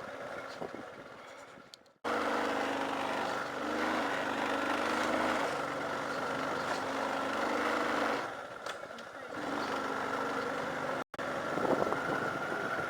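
A vehicle engine running while driving on a rough dirt road, its pitch shifting slightly as the revs change, over a rushing noise. The sound drops out abruptly twice, about two seconds in and again near eleven seconds.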